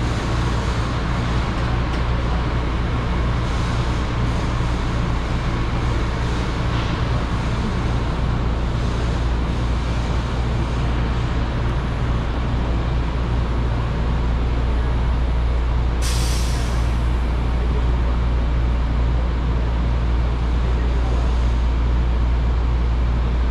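A rapid-transit train running steadily, with a constant low hum and rumble of the car under way. About two-thirds of the way through there is one short burst of hiss, like air released from the brakes.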